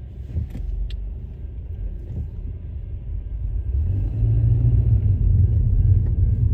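Road and engine rumble inside a moving car's cabin, a steady low drone that grows louder about two-thirds of the way through as the car picks up speed.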